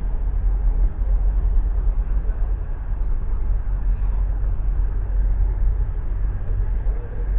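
Steady low rumble of a passenger train carriage travelling along the line, heard from inside.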